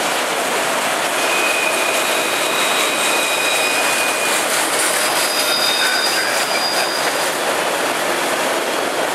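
Freight train's boxcars rolling past: a steady rumble and rattle of wheels on rail, with thin, high-pitched wheel squeals that sound from about a second in until about seven seconds in.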